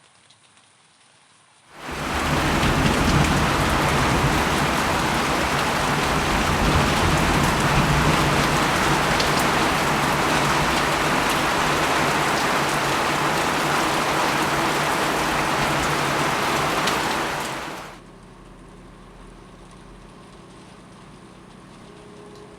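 Heavy rain pouring down in a dense, steady hiss of drops. It starts suddenly about two seconds in and drops to a much quieter level near the end.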